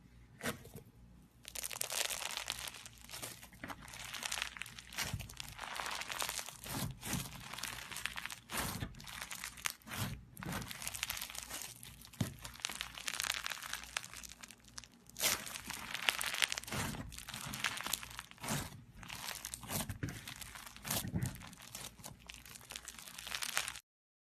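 Slime being squeezed and worked by hand, giving a dense run of small sticky clicks and crackles in waves of louder handling. It stops abruptly near the end.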